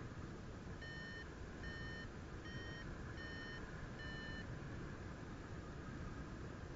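A paragliding variometer beeps five times in a steady rhythm, a little over one beep a second, then goes quiet: the beeping of a vario that signals the glider is climbing in lift. A steady rush of wind on the microphone runs underneath.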